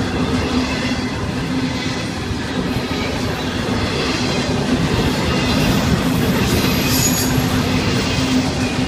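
Double-stack intermodal freight cars rolling past, with a steady, loud noise of steel wheels running on the rails.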